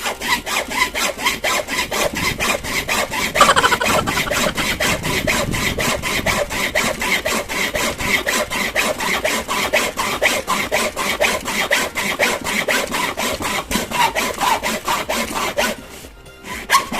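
Hacksaw cutting through a suitcase wheel's mount in rapid, even back-and-forth strokes, several a second. The sawing stops about a second before the end, with a few more strokes right at the end.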